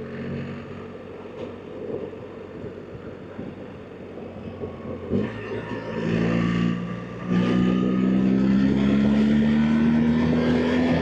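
BMW R 1300 GS Adventure's boxer-twin engine under way, running gently for the first few seconds. About five seconds in it is opened up; after a brief dip, as at a gear change, it pulls hard with a slowly rising pitch through the rest.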